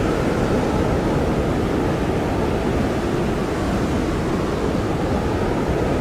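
Blizzard wind blowing as a steady, dense rush, with a faint high whistle held within it.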